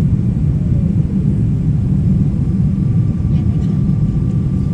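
Steady low rumble of a Boeing 777-300ER in flight, heard from inside the passenger cabin, with engine and airflow noise. A faint thin tone joins it about halfway through.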